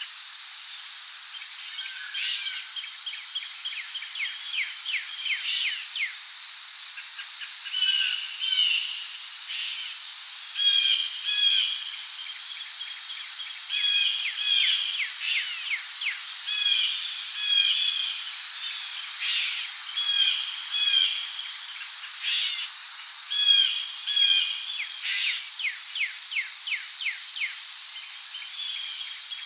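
Rainforest ambience: a steady, high-pitched insect drone of crickets, with birds calling over it in short repeated phrases and quick trills that come and go every second or two.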